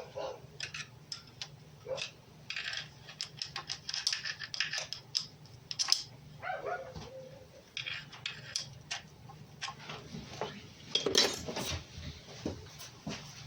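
Hand tools and metal engine parts clinking and clicking irregularly as the timing chain tensioner on a VAZ-21213 Niva engine is tightened and the chain is checked. Two brief pitched sounds stand out, one about six and a half seconds in and a louder one near eleven seconds.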